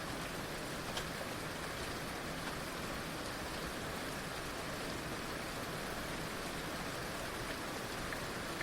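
Heavy rain falling steadily, a dense even hiss with the odd distinct drop tick standing out.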